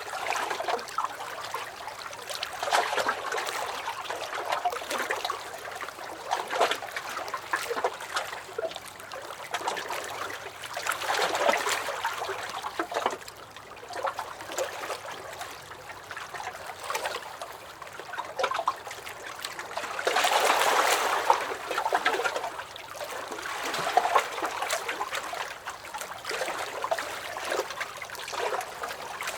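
Small lake waves lapping and splashing against a dock, in irregular swells every few seconds, with a larger surge about a third of the way in and another about two thirds in.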